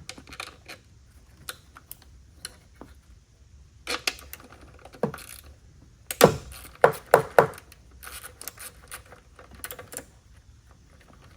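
Ratchet and socket clicking and metal tools clinking on engine bolts, in scattered sharp clicks. A cluster of four loud knocks comes about six to seven and a half seconds in, followed by a stretch of fast fine clicking.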